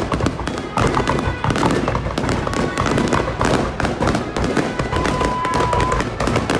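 Fireworks going off in rapid succession, a dense run of bangs and crackles, with a brief high steady whistle about five seconds in.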